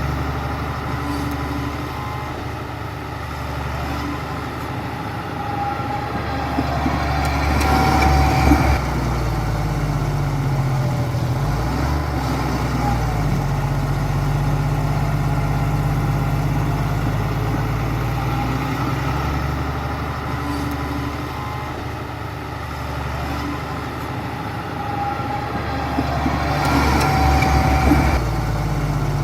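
Heavy diesel engine of an earthmoving machine running steadily. Twice it builds up under load, about eight seconds in and again near the end, then drops back abruptly.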